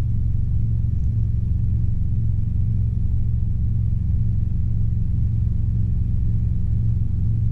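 Robinson R22 helicopter in flight during a climb, heard from inside the cabin: its piston engine and rotor make a steady low drone.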